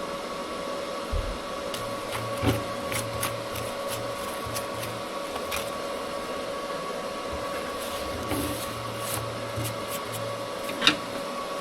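A steady machine hum with a fixed whine, and scattered light clicks and taps over it.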